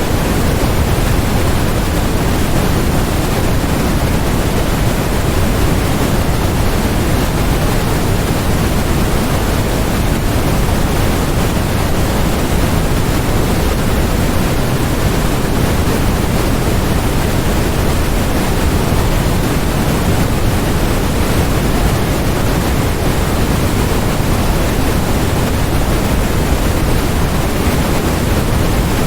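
Steady synthetic noise track of the kind sold as white noise: an even, unchanging hiss, fuller in the low end, like pink noise.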